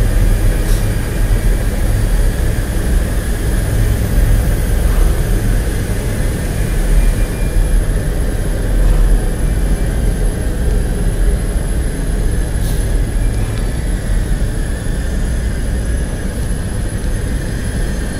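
Steady industrial machinery noise: a loud low rumble with a faint, constant high whine over it, and a couple of faint clicks.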